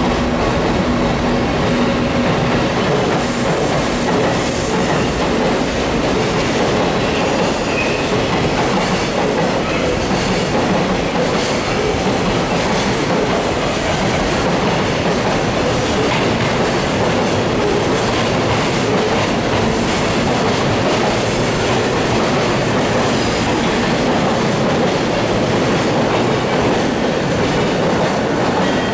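JR Central 313 series 2600-subseries electric multiple unit running slowly into the platform over curved pointwork: a steady rumble of wheels clattering over rail joints and points, with some wheel squeal on the curves. The cars pass close by near the end.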